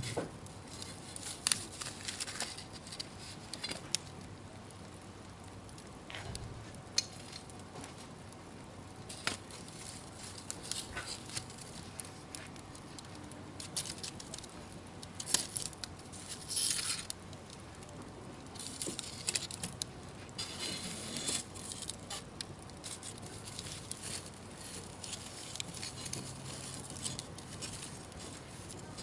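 Wood campfire burning, with scattered crackles and pops from the burning wood and a few short spells of hissing.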